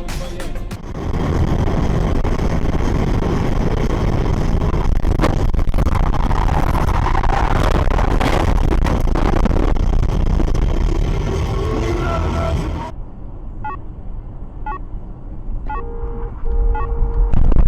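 Vehicle and road noise from a dashcam recording in traffic, a steady noisy rush. About 13 s in it cuts to a quieter recording with a series of short clicks and a brief steady beep.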